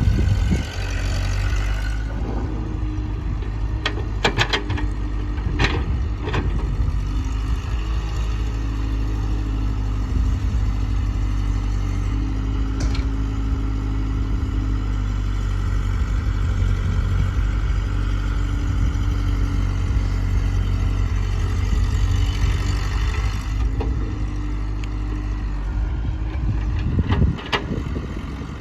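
Heavy diesel engine of tractor and loader machinery running steadily near idle during sand loading. A few sharp clanks come about four to six seconds in, and again near the end.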